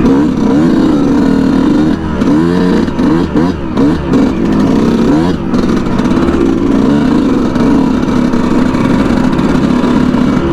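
Yamaha YZ125 125cc single-cylinder two-stroke dirt bike engine under way, revving up and falling back again and again in the first half, then running at steadier revs.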